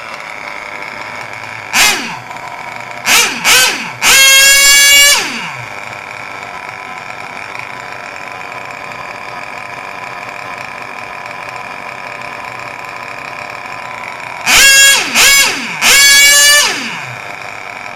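Small nitromethane-fuelled glow-plug engine of a micro mini tractor puller running at a steady high-pitched idle and blipped up to a screaming rev in short bursts: two quick blips then a longer rev about a second long early on, and the same again near the end, each rev falling away in pitch as it drops back to idle.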